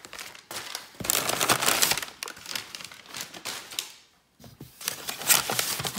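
Packing material crinkling and rustling as a doll box is shifted about inside its cardboard shipping carton, in irregular bursts with a brief pause about four seconds in.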